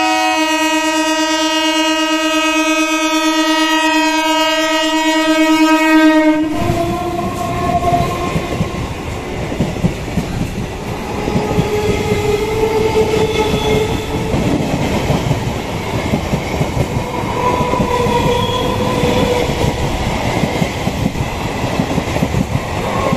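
EMU local train sounding one long steady horn blast for about six seconds, then passing at speed close by: a loud rush of wheel and coach noise with the wheels clattering over the rails and faint whining tones.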